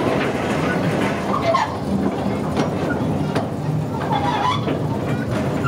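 A train running, with a steady low drone and a few short higher-pitched squeals about a second and a half in and again near four seconds.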